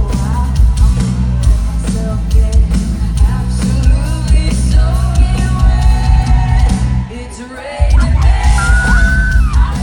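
Live pop music through a big concert sound system: a heavy bass beat with singing and crowd yelling over it. The bass drops out for under a second about seven seconds in, then comes back.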